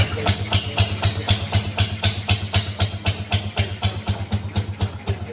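1915 Caille-built Hiawatha rowboat motor, a single-cylinder two-stroke, running steadily just after being started by hand: a rapid, even string of sharp exhaust pops, about seven a second.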